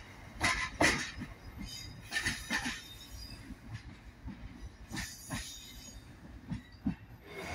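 Steel wheels of the rear open box wagons of a freight train clanking and clicking irregularly over rail joints and points as the train rolls away, over a low rumble; the loudest knocks come in the first second.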